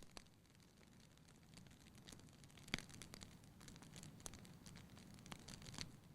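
Wood fire crackling in a fireplace: scattered sharp pops and snaps over a faint low hiss of the flames, the loudest pop a little under three seconds in.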